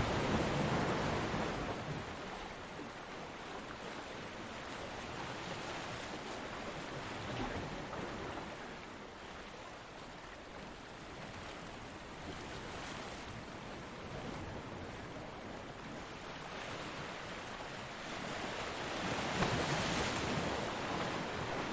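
Ocean surf: waves breaking and washing on a beach, one surge fading in the first couple of seconds and the next one building near the end.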